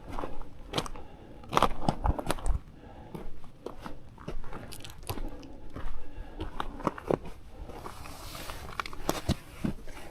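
Footsteps crunching on a stony, gravelly mountain path, uneven steps about one or two a second, with a brief hiss about eight seconds in.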